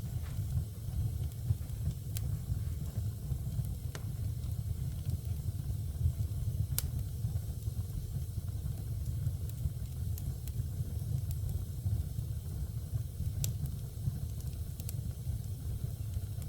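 Fire burning in a fireplace: a steady low rumble with a few sharp crackling pops scattered through it.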